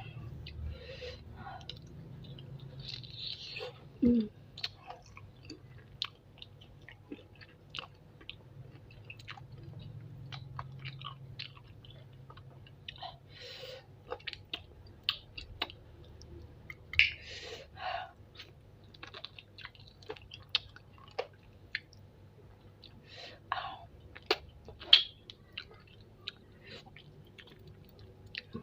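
Close-up mouth sounds of someone eating spicy chicken feet: wet chewing and sucking on skin and cartilage, broken by irregular sharp clicks and small crunches.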